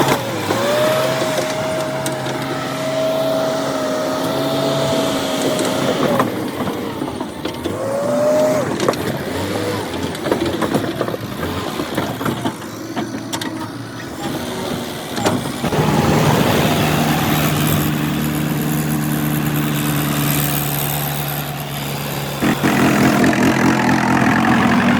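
Heavy diesel machinery running, with the engine note changing through the clip and a rapid, louder engine beat in the last few seconds. A long steady high-pitched tone sounds over roughly the first six seconds.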